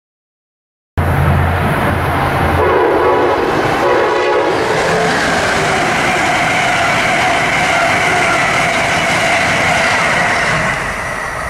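Amtrak passenger train passing close by: steady rumbling, rushing wheel-on-rail noise with a high whine. It starts abruptly about a second in.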